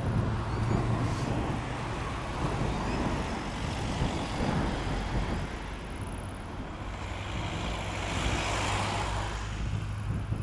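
Steady engine rumble with a low hum, loudest at the start and easing off, then swelling and fading again from about seven to nine and a half seconds in as something passes.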